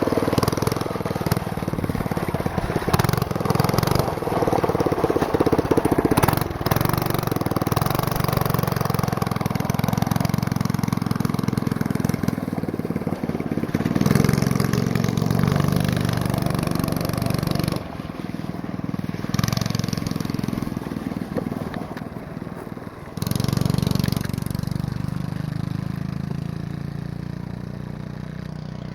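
Go-kart's small four-horsepower single-cylinder engine running with its governor removed, its pitch rising and falling with the throttle. The level drops for a few seconds about 18 seconds in, then comes back abruptly.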